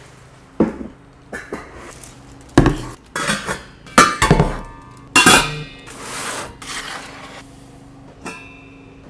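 Dishes being handled and set down: a run of sharp clinks and knocks, several with a brief ringing tone, followed by softer rustling.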